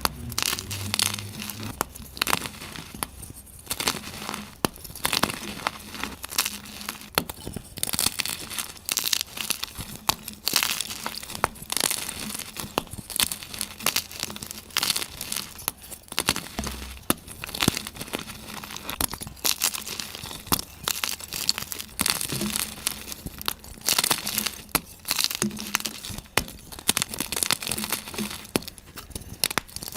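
Gym chalk being crushed, giving a dense, irregular stream of crunches and crackles, played back sped up.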